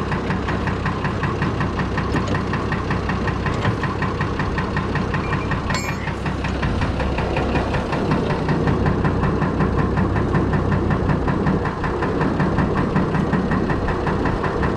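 Six-cylinder Perkins diesel engine in a Fordson Major tractor running steadily, a little louder from about eight seconds in. A brief sharp metallic click about six seconds in.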